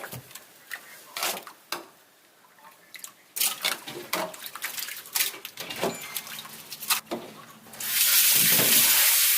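Kitchen sink work: water splashing from a tap with scattered clinks and knocks of dishes. About eight seconds in, a loud steady rushing hiss starts.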